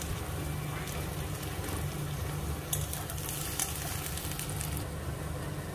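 Sliced onions with crushed ginger and garlic sizzling as they fry in oil in a kadai, while a steel spatula stirs them and scrapes against the pan a few times around the middle. A steady low hum runs underneath.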